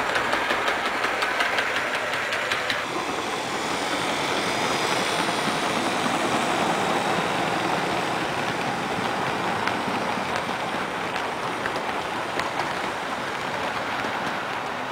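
HO scale electric model train running on the layout track, with a rapid, even clicking of wheels over the rail joints in the first few seconds, then a steady rushing run.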